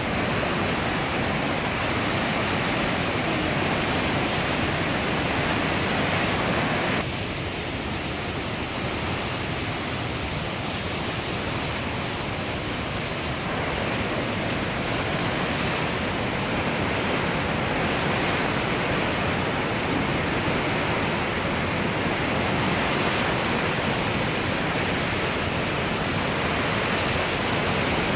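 Swollen, flooding river water rushing in a steady roar. It dips a little about seven seconds in and builds back up after about thirteen seconds.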